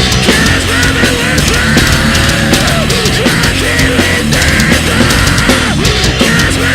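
Loud heavy metal music played by a rock band, with drums hitting steadily throughout.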